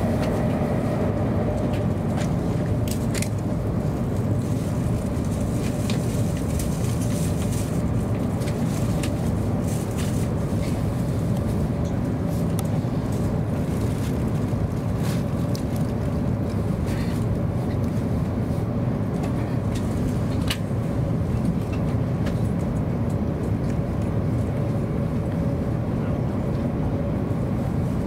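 Cabin running noise of a Hokuriku Shinkansen train at speed: a steady low rumble with a faint constant hum and occasional light ticks.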